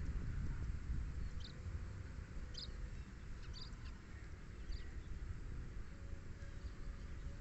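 Small bird chirping: four or five short, high chirps spread a second or so apart, over a steady low rumble of wind on the microphone.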